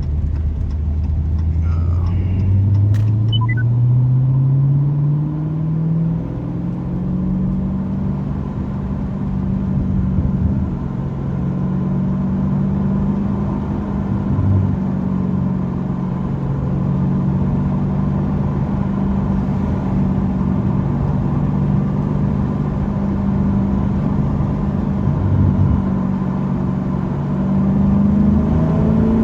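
Straight-piped Dodge Challenger Scat Pack's 392 HEMI V8 exhaust under way: the engine note climbs as the car accelerates over the first several seconds, then holds steady at cruising speed and rises again near the end.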